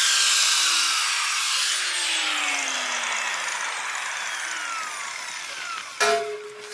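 A power tool's motor spinning down after being switched off, its whine falling in pitch and fading over about five seconds. Near the end comes a sharp clank that rings briefly.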